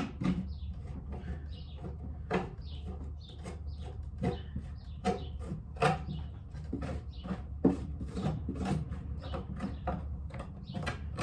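Metal screwdriver and scraper scraping packed grass and dirt out of the underside of a lawn mower deck, in short irregular strokes several a second.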